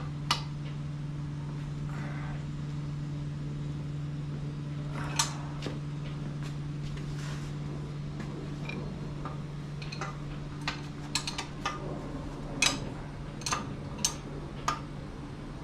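Metal wrench clinking on the nuts that hold an outboard's lower unit, in scattered sharp clicks that come thicker in the second half. A steady low hum runs underneath.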